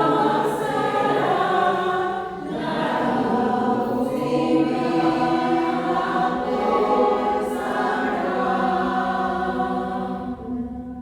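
A choir singing long held phrases, with a short breath break about two seconds in; the final chord dies away near the end.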